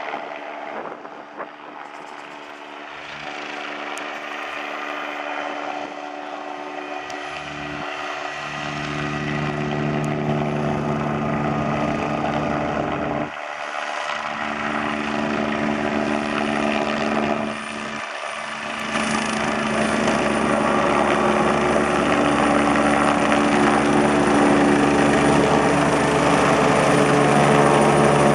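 Helicopter rotors and engine running in a steady, pulsing drone that grows steadily louder.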